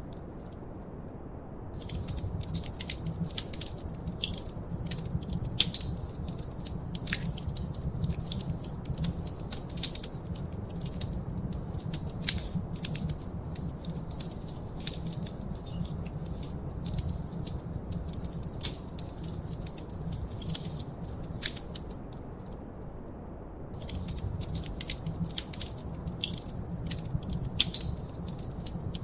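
Wood fire crackling, with dense sharp pops and snaps over a steady low rumble of the flames. The popping drops out twice for a second or so, just after the start and about two-thirds of the way through, leaving only the low rumble.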